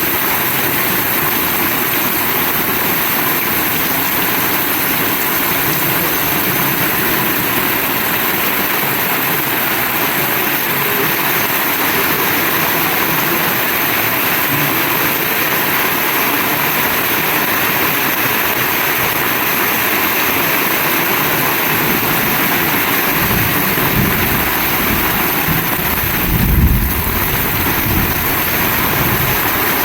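Heavy rain pouring down steadily in an even, dense hiss. Near the end come a few low rumbling thuds, the loudest just before the last few seconds.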